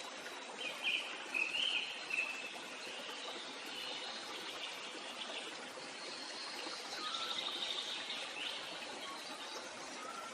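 Steady rush of a flowing stream with birds chirping over it: a few short bright calls about a second in, and a buzzy trill a little past the middle.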